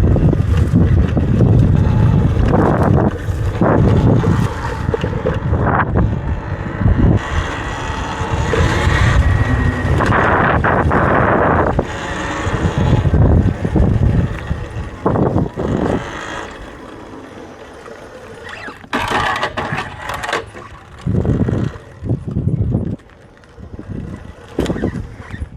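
Wind buffeting the microphone while riding an electric dirt bike over rough ground. It is loud and steady through the first half, then drops to separate gusts and bumps.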